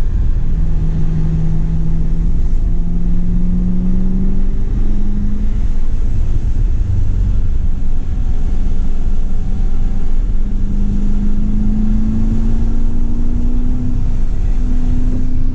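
C7 Corvette Grand Sport's 6.2-litre LT1 V8, heard from inside the cabin, pulling steadily with its pitch climbing slowly in stretches, over a strong low rumble.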